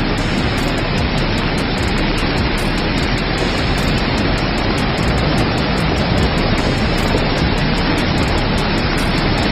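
Flooded mountain river rushing in rapids: a steady, loud roar of water.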